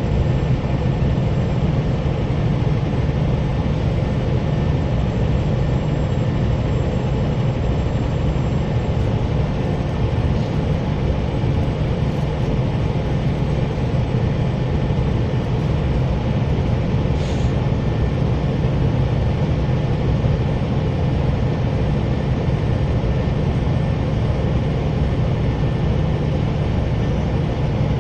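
Scania coach's diesel engine running steadily at cruising speed, with a thin, high, steady turbo whistle above the engine drone.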